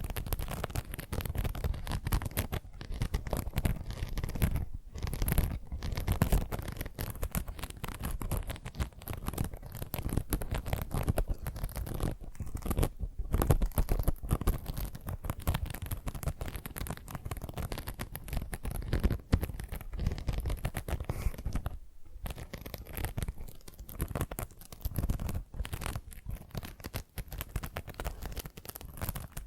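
Fingernails scratching and rubbing a scrubbing sponge close to the microphone in quick, continuous strokes, broken by a few short pauses.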